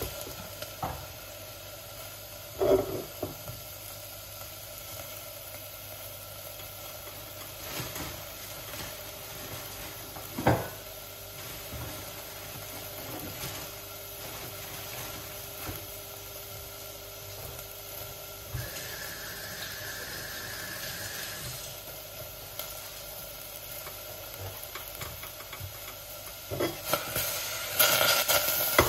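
Chopped tomatoes sizzling softly in a stainless-steel saucepan, a steady low hiss. A few sharp knocks of the pan, and a louder clatter near the end.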